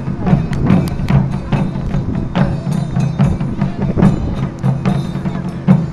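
Japanese taiko drum ensemble performing: quick, sharp strikes several times a second over a steady low sustained tone.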